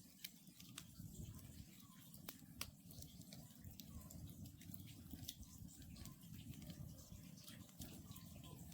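Wood campfire burning: frequent sharp, irregular crackles and pops over a soft low hiss of the flames, faint overall.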